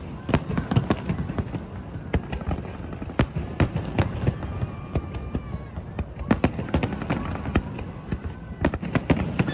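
Aerial fireworks bursting in a rapid, irregular string of sharp bangs.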